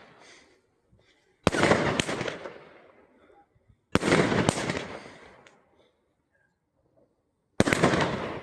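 A 1.2-inch firework cake firing three heavy shots a few seconds apart. Each shot is a sharp bang with a second crack right after it, then a rumble that fades away.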